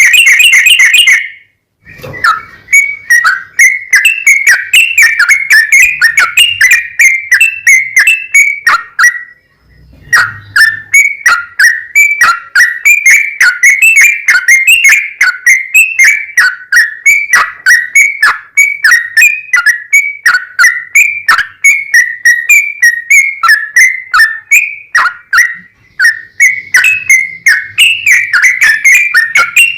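Yellow-vented bulbul (trucukan) singing long rapid-fire runs of loud whistled notes, several a second, broken by two short pauses about two and ten seconds in.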